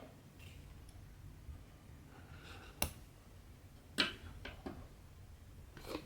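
Hand cross-stitching on 14-count fabric: faint rustles and about four short sharp taps as the needle punches through the taut cloth and the cotton thread is drawn after it.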